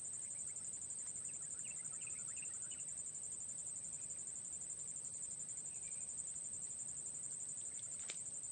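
Insects buzzing in one steady, high, even drone, with faint short bird chirps in the first few seconds and a few sharp clicks near the end.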